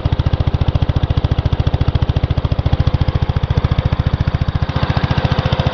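Single-cylinder 10-horsepower cast-iron Kohler engine on a Gravely 810 walk-behind tractor, running steadily with an even, rapid chug of firing pulses.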